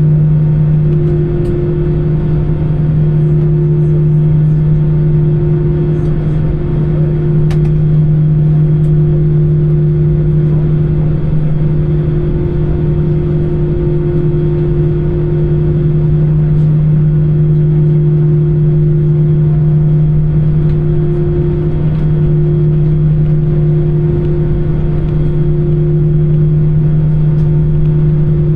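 Airbus A320 cabin noise: the jet engines and airflow making a steady low drone with a constant hum, heard from inside the passenger cabin.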